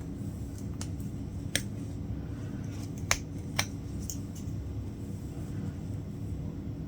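Short, sharp clicks of a latch hook tool as its hinged latch snaps shut while pulling yarn knots through rug canvas, about half a dozen in the first few seconds, the loudest about three seconds in. A steady low hum lies underneath.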